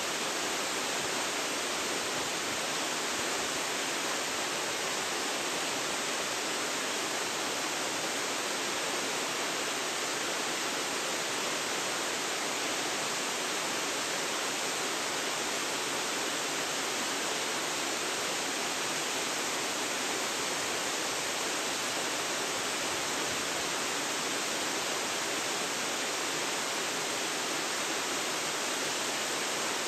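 Waterfall rushing: a steady, unbroken wash of falling and splashing water, heard through a phone's built-in microphone.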